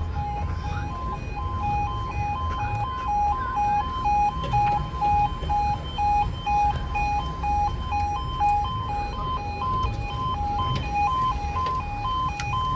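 Level crossing alarm sounding its two-tone 'yodel', switching back and forth between a lower and a higher note about twice a second, warning road users that a train is approaching. A low rumble lies underneath.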